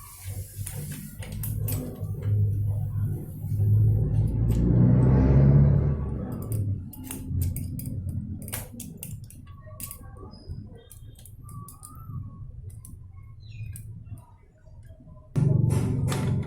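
Light metallic clinks from tools and bicycle crank parts being handled, over background music with a steady low bass. A louder rushing noise swells about four seconds in and fades about two seconds later.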